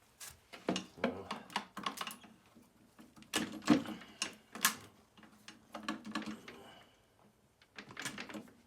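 Irregular clicks and knocks, several sharp ones close together around the middle, with no steady cranking or running sound.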